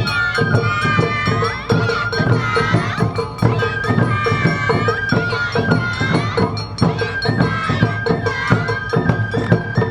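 Awa Odori festival band playing: a high bamboo-flute melody stepping between a few notes over steady drum strokes and a ringing metal bell.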